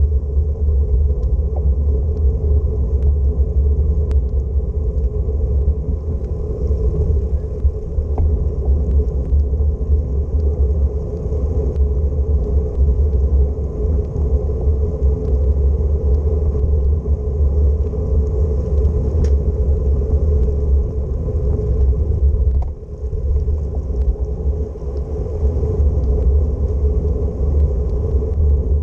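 Steady heavy low rumble of a bicycle ride: wind buffeting the microphone and tyres rolling on the road, with a few faint clicks scattered through.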